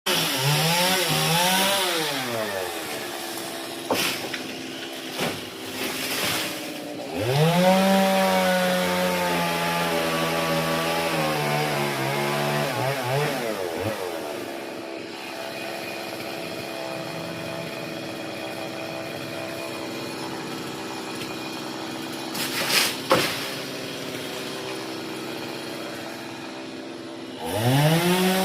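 Chainsaw engine revved up and held at high speed for several seconds, then dropping back to a steady idle for a long stretch, with a few sharp knocks, and revved up again near the end.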